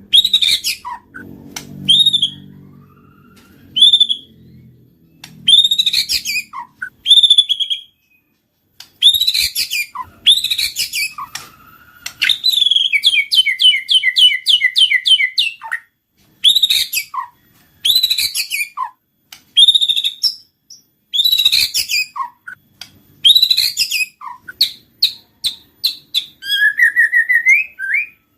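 White-rumped shama singing: loud, short whistled phrases repeated every second or two, with a rapid run of quickly repeated notes a little before the middle.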